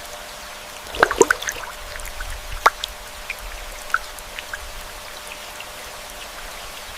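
Water drops pattering over a steady spray-like hiss, like rain falling on leaves, with a cluster of louder drips about a second in and a few single ones after.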